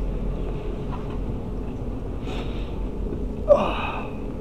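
Steady low rumble of a train carriage's interior. About three and a half seconds in, one short, loud sound falls quickly in pitch.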